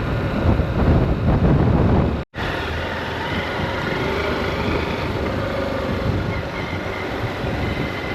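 Riding noise on a moving motorcycle: wind buffeting the microphone over the running engine and road noise, with a brief dropout about two seconds in, then steadier.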